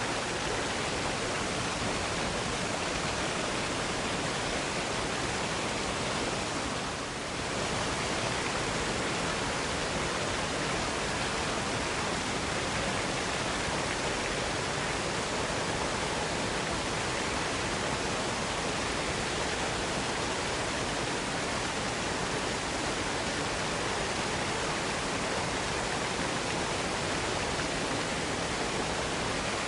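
Waterfall cascade pouring steadily, an even rush of falling water that dips slightly for a moment about seven seconds in.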